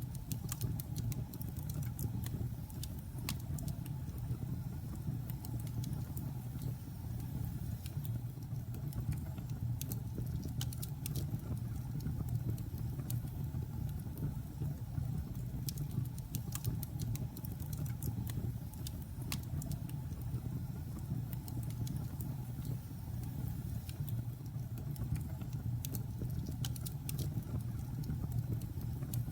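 Logs burning in a fireplace: a steady low rumble under frequent sharp, irregular crackles and pops from the burning wood.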